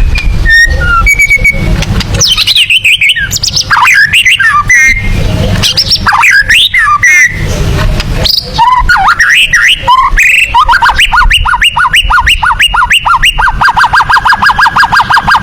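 White-rumped shama (murai batu) singing loudly: varied whistled phrases, then from about ten seconds in a run of repeated notes at about four a second that breaks into a fast, even trill near the end.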